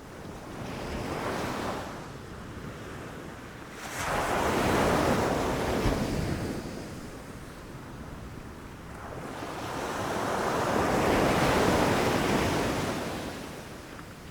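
Ocean waves breaking on a beach, in three swells: a small one about a second in, a louder one that crashes in suddenly about four seconds in, and a slower one that builds and fades near the end.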